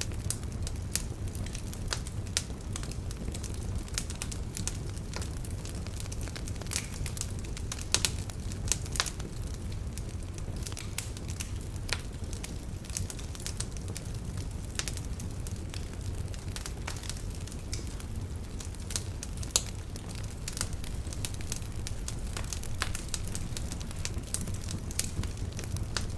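Wood fire burning in a fireplace: a steady low rumble of flame with irregular crackles and snaps, a few louder pops among them.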